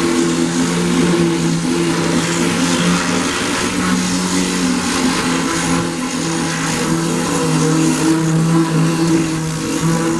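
Power sander running continuously while stripping paint: a steady motor hum with a hiss of abrasion, its pitch wavering slightly.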